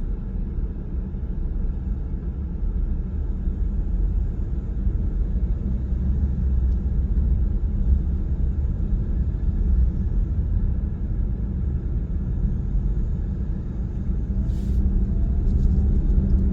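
Steady low rumble of a car being driven, tyre and engine noise heard from inside the cabin, with a few faint clicks near the end.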